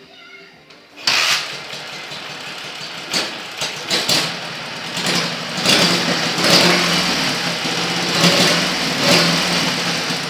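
Dnepr motorcycle's flat-twin engine kick-started, catching about a second in, then running and revved in short bursts several times, on its first run through a new R75-style exhaust.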